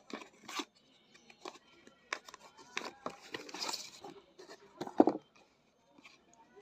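Parcel packaging being handled and torn open: irregular crinkling and rustling, a longer tearing stretch in the middle, and a loud knock about five seconds in.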